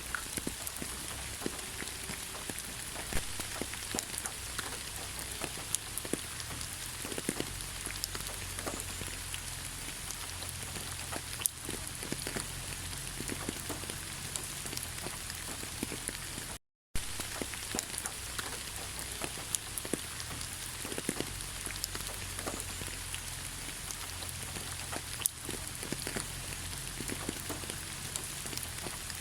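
Steady rain falling, an even hiss with many individual drops ticking sharply on a surface, and a low rumble underneath. The sound cuts out completely for a fraction of a second about two-thirds of the way through.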